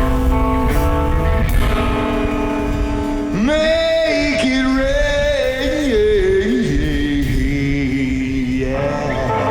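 Live band playing guitar-led music. About three seconds in, a singer's voice comes in on one long, wavering held note that stops shortly before the end.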